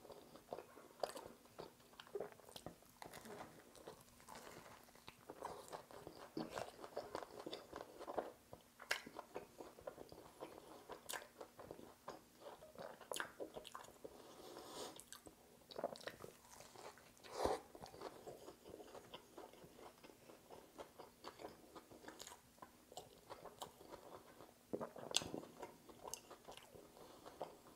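A person biting into and chewing a breaded buffalo chicken sandwich, close to the microphone: many small irregular crunches and mouth sounds, with one louder bite about seventeen seconds in.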